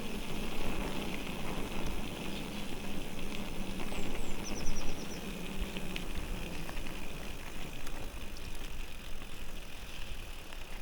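Electric mountain bike being ridden along a trail: steady tyre rumble and wind noise, with a brief series of high chirps about four seconds in.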